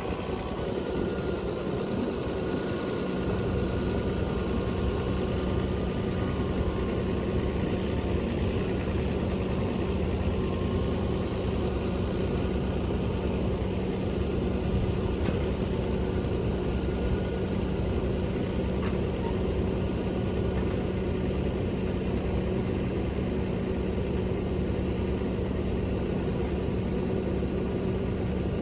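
Truck engine running steadily: a constant low drone and rumble that sets in about three seconds in.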